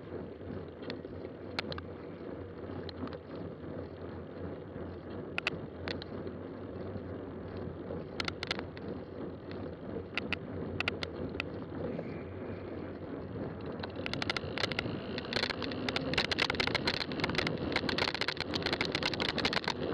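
Fat-tire bike rolling along a trail: steady tyre and drivetrain noise with scattered clicks and rattles, which grow busier and a little louder about two-thirds of the way through.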